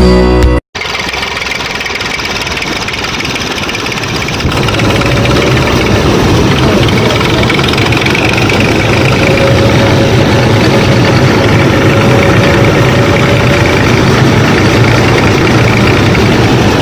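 Small motor of a DIY miniature combine harvester running steadily, getting louder about four seconds in. A moment of background music cuts off sharply just before it.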